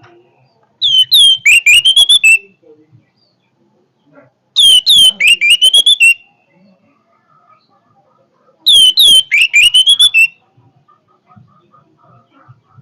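Orange-headed thrush (anis merah) singing loud whistled song in three phrases about four seconds apart. Each phrase lasts about a second and a half and runs from falling whistles into a quick rising string of notes.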